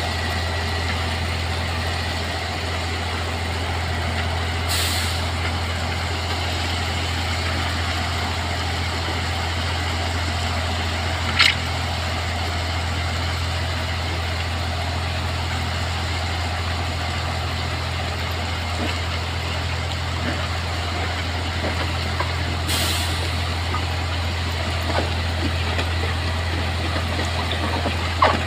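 Diesel locomotive idling with a steady low drone. Air hisses out briefly about 5 seconds in and again near 23 seconds, and there is a sharp click near the middle and another at the end.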